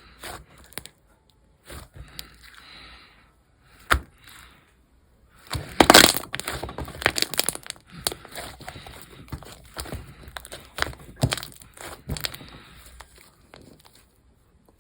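Hands squishing and poking a mint-chocolate slime: irregular sticky clicks and crackling pops, with the loudest squelching burst about six seconds in, fading out near the end.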